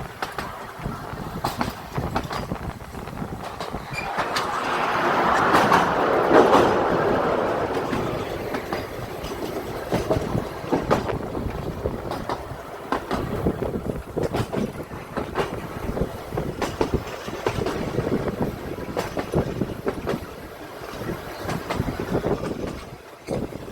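Narrow-gauge electric tram running along its track, its wheels clicking irregularly over the rails. About four seconds in, a louder rushing swell rises, then fades over the next few seconds.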